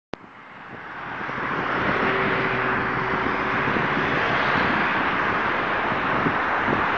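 Steady rush of road traffic with wind on the microphone, starting with a click and building up over the first two seconds.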